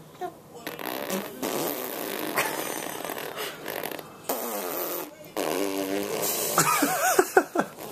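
A series of fart-like sputtering noises, ending in squeaky rising and falling tones near the end.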